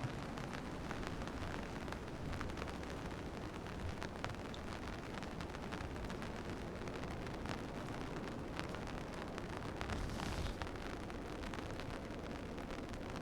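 Steady rain falling, with many small sharp drop hits close by over a low rumble, and a brief louder hiss about ten seconds in.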